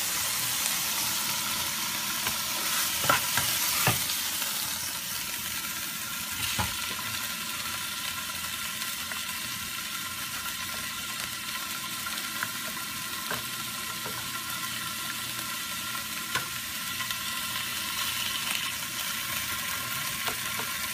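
Minced pork and chili paste sizzling in a hot wok: a steady frying hiss, a little louder in the first few seconds, with a few sharp clicks of the stirring utensil.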